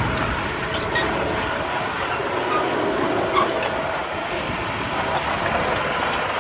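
Heavy earthmoving machinery working: a diesel engine running steadily with scattered metallic clanks and rattling.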